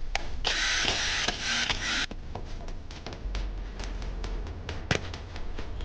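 Electric rotary hammer motor running briefly for about a second and a half, then switched off. Light clicks and taps of the tool being handled follow.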